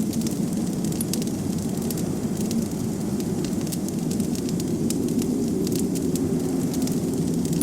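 Wood fire crackling, with frequent sharp irregular pops, over a steady low rush of blizzard wind.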